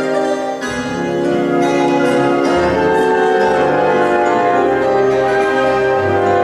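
A fado group and a symphony orchestra playing together live, with held orchestral chords that shift every second or two.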